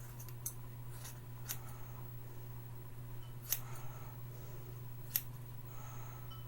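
Scissors snipping hair: a handful of short, sharp cuts at irregular intervals, the loudest about halfway through and again near the end, over a steady low hum.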